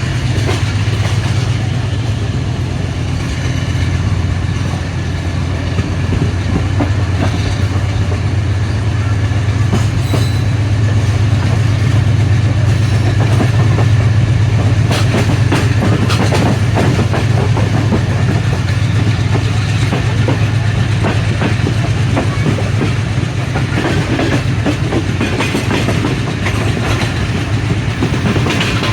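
Passenger train running along the line behind an AGE30 'Blue Tiger' diesel-electric locomotive: a steady low diesel drone under the rumble of the coaches, with wheels clicking over rail joints at times, most around the middle.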